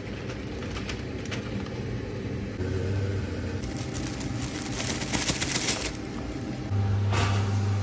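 Kitchen cooking sounds: a few clicks and taps, a burst of rustling or crinkling about five seconds in, and a low electric hum that switches on briefly around three seconds and again near the end.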